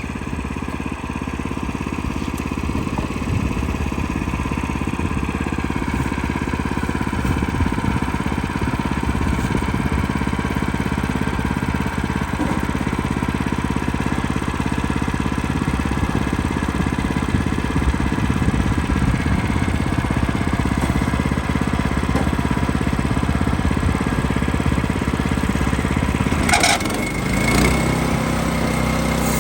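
Wood-Mizer LX25 sawmill's engine running steadily. Near the end there is a brief clatter and the engine note changes.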